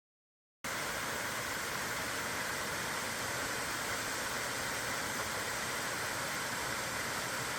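Waterfall's steady rushing roar, cutting in abruptly just after the start.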